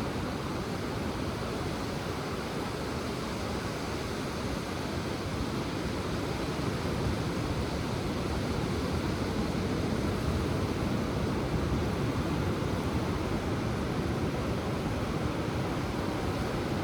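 Ocean surf washing onto the shore: a steady rush of noise that grows a little fuller about seven seconds in.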